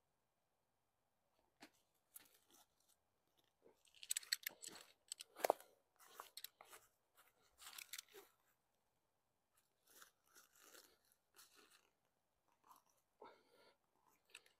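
Faint, intermittent crunching and rustling from pegging down a tent's fly sheet: the fabric being handled and pegs pushed in, with one sharper knock midway.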